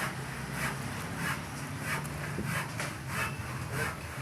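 Rhythmic back-and-forth scraping or rubbing strokes by hand on an engine part, about three strokes every two seconds, over a steady low hum.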